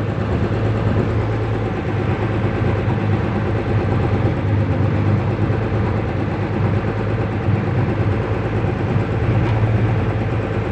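Ferry boat's engine running steadily, a loud, even low hum.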